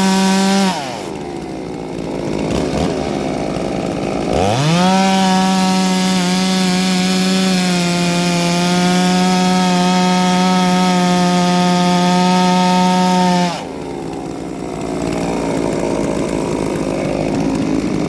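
Ported two-stroke chainsaw at full throttle. It drops off the throttle under a second in, revs back up about four seconds in and is held high for about nine seconds, its pitch dipping slightly partway, then falls back to a low idle.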